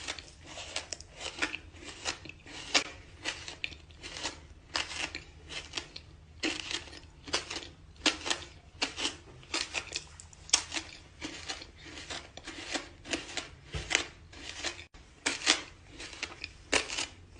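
A person chewing dirt close to the microphone: an irregular run of crisp crunches, two or three a second.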